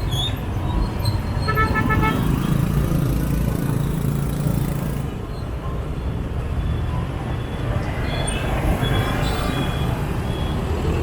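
Motorbike street traffic: a steady low rumble of engines and road noise. A short vehicle horn toots about a second and a half in, and another sounds later on.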